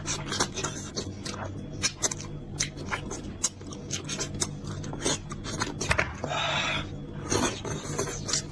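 Close-miked eating of gelatinous beef trotter: rapid wet smacking and chewing clicks, with a short breathy slurp about six seconds in. A steady low hum runs underneath.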